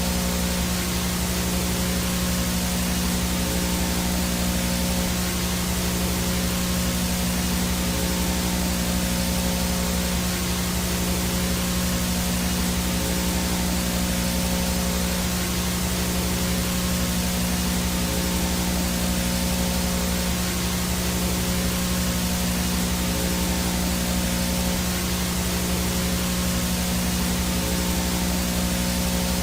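Analog VHS static noise: a steady, even hiss of white noise over a constant low electrical hum and buzz.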